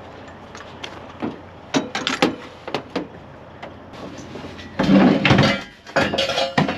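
A few sharp knocks, then two loud, longer scraping clatters about five and six seconds in.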